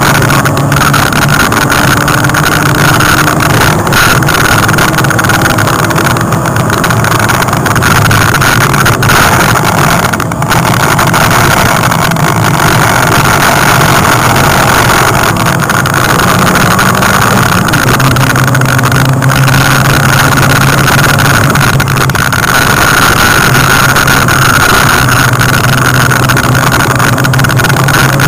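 Toyota Starlet KP60 rally car's engine running hard under load, heard loud from inside the cabin. Its note holds steady and then changes pitch in steps, once near the middle and again about two-thirds through.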